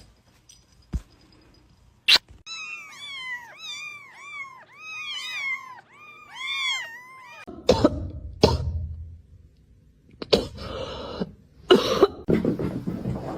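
A cat making a quick run of about a dozen short, high mews, each rising and falling in pitch, then several harsh cough-like bursts.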